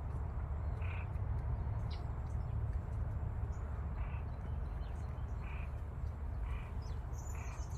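Plain chachalacas giving short harsh, crow-like calls, repeated about once a second with a few short pauses.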